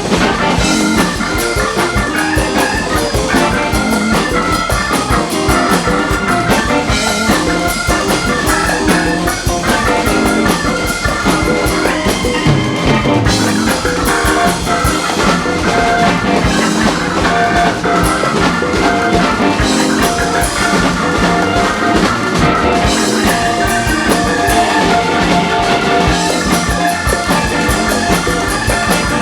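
Live rock band playing an instrumental section with no singing: drum kit and guitar carrying a steady groove, with a held note coming through in the second half.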